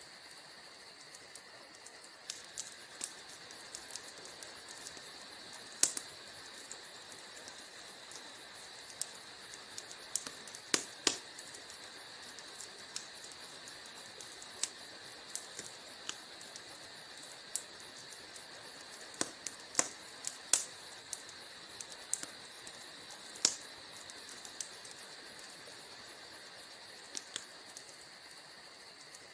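Wood fire crackling: scattered sharp pops and snaps at irregular intervals over a steady hiss, with a few louder pops about six, eleven, twenty and twenty-three seconds in.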